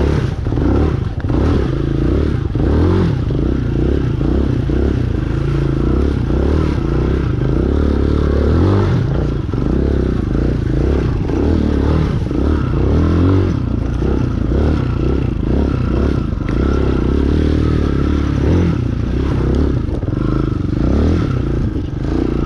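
Chinese 250 cc dirt bike engine revving up and down over and over as it is pushed through deep mud, with rattling and scraping throughout.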